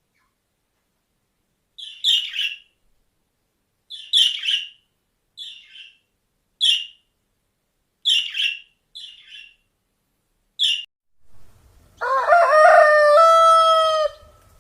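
A rooster crowing once near the end: one long call that rises at the start and then holds its pitch. Before it come about eight short, high-pitched bird calls, spaced a second or so apart.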